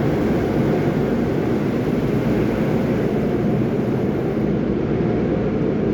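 Automatic car wash machinery and water working over the car, heard from inside the cabin as a steady low rumble and wash; the highest hiss drops away about four and a half seconds in.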